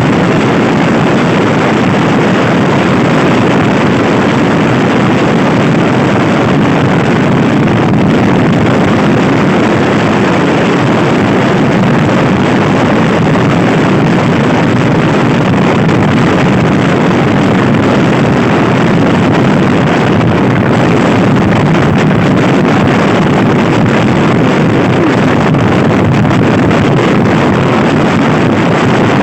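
Loud, steady wind noise buffeting the microphone of a camera on a Honda Scoopy-i scooter ridden fast, with the scooter's single-cylinder engine running underneath.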